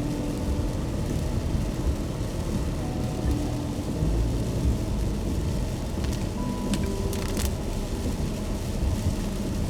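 Car driving in the rain: a steady low road rumble with rain noise over it and faint music of long held notes. A few short taps come about six to seven and a half seconds in.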